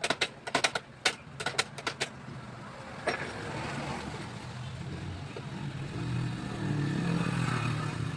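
A quick run of sharp clicks and knocks in the first two seconds, then a steady low motor hum that grows louder near the end.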